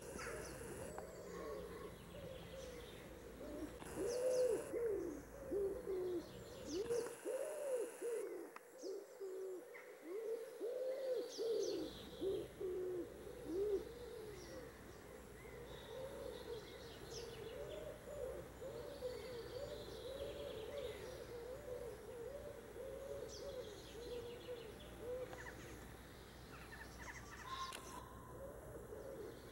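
Low, soft hooting bird calls in quick runs of short rising-and-falling notes, loudest in the first half, with faint small-bird chirps above.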